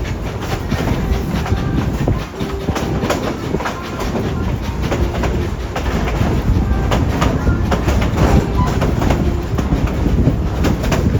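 Narrow-gauge steam train's passenger cars rolling along the track, heard from aboard: a steady rumble with wheels clicking and clacking over rail joints, and scattered brief squeaks.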